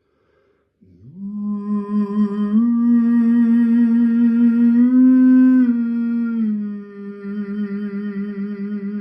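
A man's voice toning a long wordless note in a sound-healing chant. It scoops up into the note about a second in, steps up in pitch twice, then falls back to the starting note near the end with a wavering pulse.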